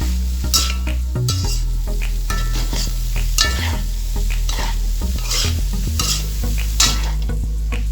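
Vegetables being stir-fried in a hot pan, sizzling, with repeated scraping strokes of the stirring utensil roughly once a second. A steady low hum runs underneath.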